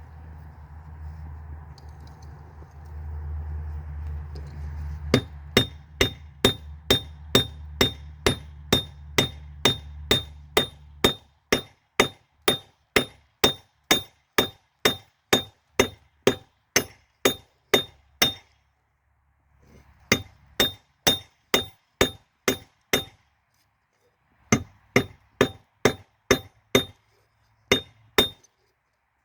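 Hammer blows ringing on steel at the anvil while a railroad spike is forged into a knife, about two strikes a second in steady runs with two short pauses. Under the first blows a low rumble dies away about eleven seconds in.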